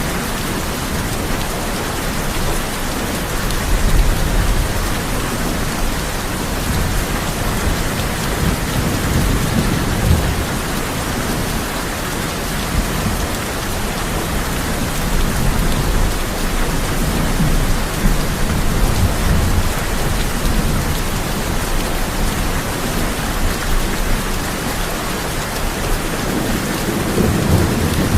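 Heavy rain drumming steadily on a tin roof, with low rolls of thunder swelling and fading several times, near the start, around ten seconds in, between about seventeen and twenty seconds, and near the end.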